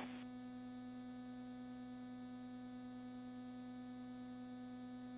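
Faint, steady electrical hum made of several steady tones on the launch commentary's radio-band audio feed, heard between calls. No rocket noise is heard.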